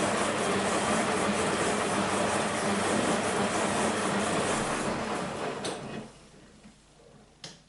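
Beko WMB 51441 washing machine running with a loud, steady rushing noise and a low hum. The noise falls away about six seconds in, and a single sharp click follows near the end.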